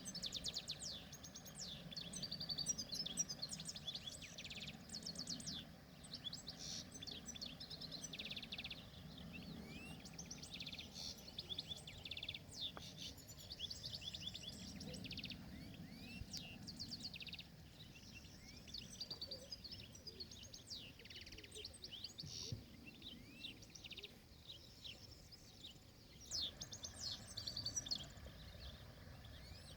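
European goldfinch singing: a long run of rapid, tinkling twitters and trills with a few short pauses, over a low background rumble.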